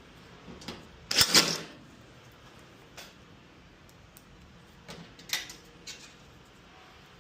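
Sharp clicks and a short clattering rattle of tools and hard washer parts being handled, loudest about a second in, followed by scattered lighter clicks and taps.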